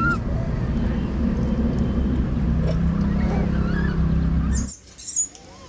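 Low, steady engine-like rumble with a faint hum, and short chirping calls over it. The rumble cuts off abruptly about four and a half seconds in, leaving a brief click and faint calls.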